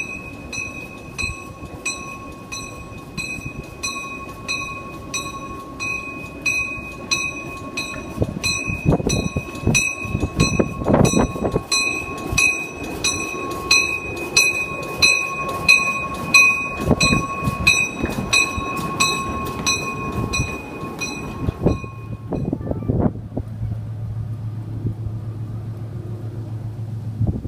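Train moving at a railway museum, with a bell ringing in fast even strokes, about two or three a second, over the rumble of the train. The ringing cuts off suddenly about 22 seconds in, leaving a low steady hum.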